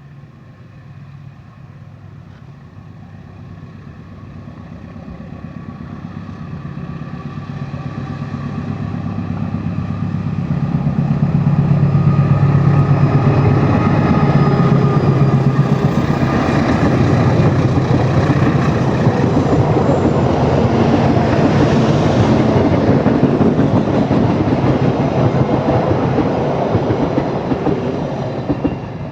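Passenger train hauled by a KAI CC206 diesel-electric locomotive passing by: the locomotive's engine grows steadily louder as it approaches, then the carriages go by with a loud, steady rush of wheels on rails that eases off near the end.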